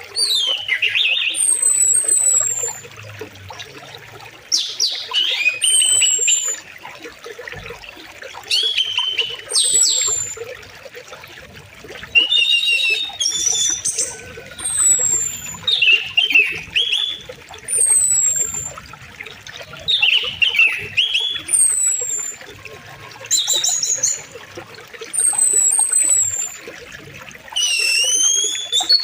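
Songbirds singing in short repeated phrases every few seconds, with quick falling whistles, over the steady rush of flowing river water.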